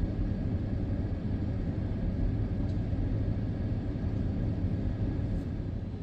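Steady low rumble of Geep road-switcher diesel locomotives running light, with no cars behind them.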